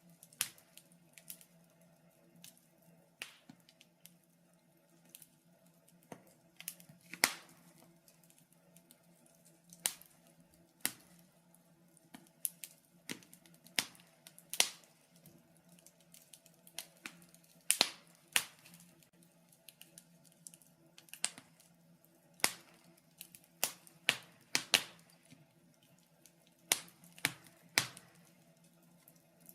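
Wood burning in a fireplace, crackling: irregular sharp pops and snaps, some single and some in quick clusters, over a faint steady low hum.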